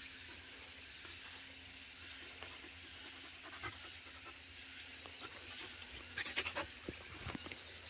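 Jindo dog panting steadily close by, with a few light clicks and scuffs near the end.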